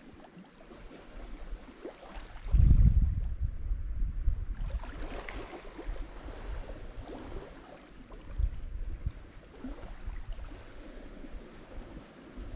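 Lake Michigan waves breaking on the shore: a wave hits heavily about two and a half seconds in, followed by washing, fizzing surf that swells and falls with a low rumble underneath.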